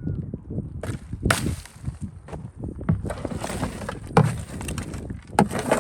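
Hands and tools working on a smartphone: irregular taps, clicks and knocks with scraping and rustling in between.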